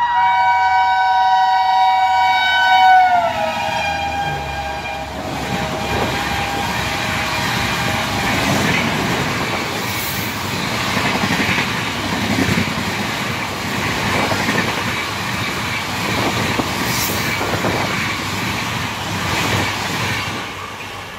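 Tejas Express passing through a station at speed. The locomotive's multi-tone horn sounds for about three seconds, drops in pitch as it passes and stops. Then comes the steady rush and rail rumble of the coaches going by, easing near the end.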